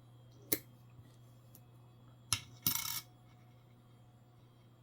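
Nickels being handled on a desk: two sharp clicks of a coin being set down, about half a second and about two and a half seconds in, the second followed by a short scraping slide. A steady low electrical hum runs underneath.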